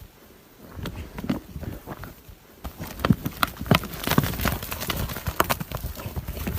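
Hoofbeats and knocking impacts, sparse at first and coming thick and fast from about two and a half seconds in.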